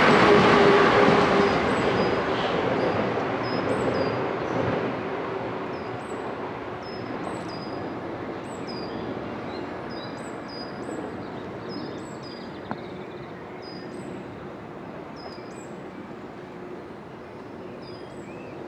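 Electric multiple-unit train running away into the distance, its rumble and a faint steady tone fading gradually. Throughout, a bird gives short high chirps about once a second.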